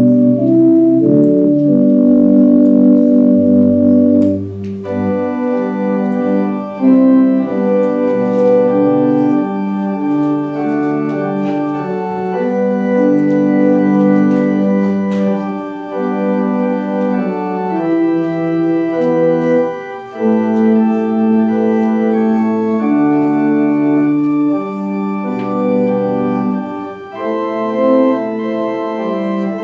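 Church organ playing a slow piece in held, sustained chords that change every second or two, taking on a brighter sound with more high notes from about five seconds in.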